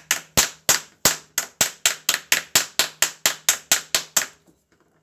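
A rapid, even series of sharp knocks, about four a second, that stops just over four seconds in.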